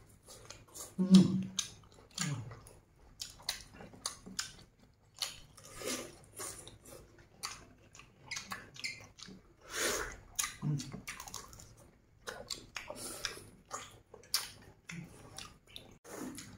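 Close-up chewing and biting of roasted duck meat: irregular wet, smacking mouth sounds and small clicks from two people eating. A brief low hum of the voice about a second in.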